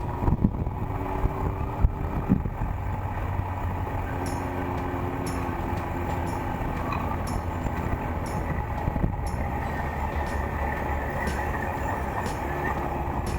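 Suzuki GSX1400 motorcycle's inline-four engine running steadily on the move, under a steady rumble of road and wind noise.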